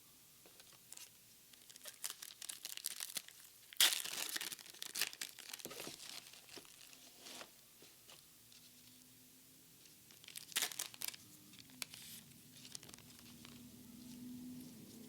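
Plastic Pokémon booster pack wrapper crinkling, then tearing open with a loud rip about four seconds in, with a second burst of crinkling tears around ten to eleven seconds. A faint low hum comes in near the end.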